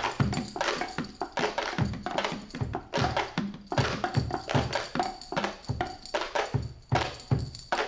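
Rock band music led by a drum kit playing a busy, steady beat, with low drum hits about twice a second, over bass and guitar.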